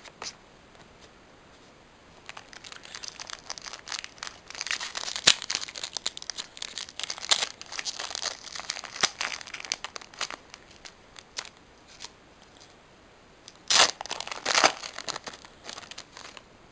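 Foil wrapper of a Pokémon trading-card booster pack crinkling as it is handled, with two loud ripping sounds about fourteen seconds in as the pack is torn open.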